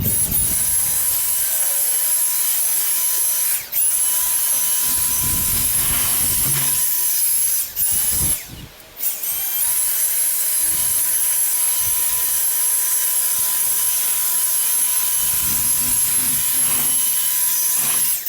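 Leaf blower running at full throttle with a steady high whine, blowing standing water off a freshly washed patio. It drops out briefly about four seconds in and again for a second or so around the middle.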